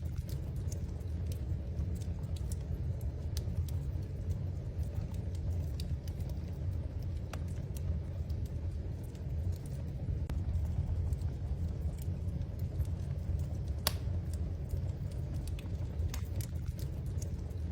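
Wood fire burning in a fireplace: scattered small crackles and pops, one sharper pop near the end, over a steady low rumble.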